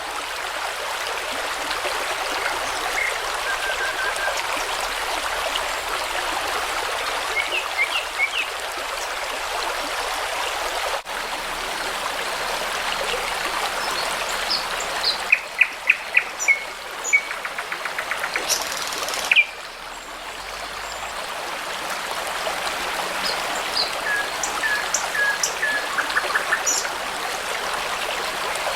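A babbling brook running steadily, with songbirds chirping over it in short scattered calls. About halfway through there is a quick run of loud chirps, and more short calls come near the end.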